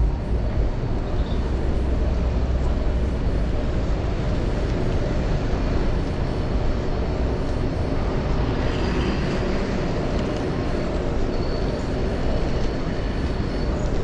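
Wind rumbling on the action camera's microphone while riding a bicycle, strongest in the first few seconds, over steady road and traffic noise.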